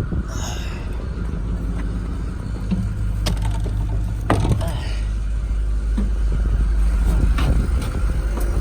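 Freshly rebuilt Power Stroke V8 diesel of a 2008 Ford F550 bucket truck idling steadily, growing a little louder in the second half. A few sharp knocks or clunks come over the engine sound.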